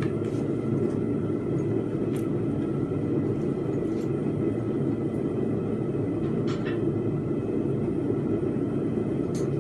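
A forge running with a steady low rumble, with a few faint clicks over it.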